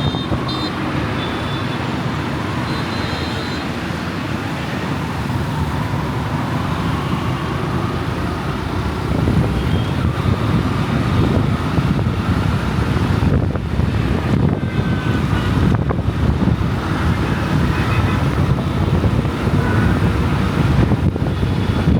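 Road and traffic noise heard from a motorcycle riding on a busy city road: engine and tyre noise in a steady low haze that gets louder about nine seconds in.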